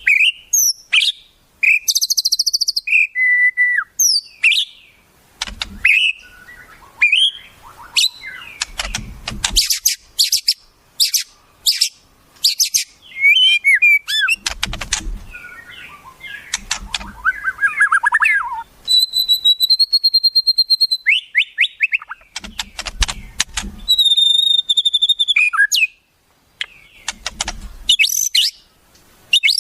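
Wild songbirds calling and singing in a varied, fast-changing sequence: sharp chirps, rapid runs of clicking notes, short gliding whistles, and twice a long held whistle in the second half.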